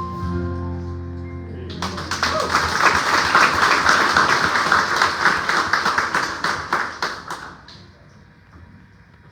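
A song's last held chord rings out and stops about two seconds in, then a congregation claps and applauds for about six seconds before the applause dies away.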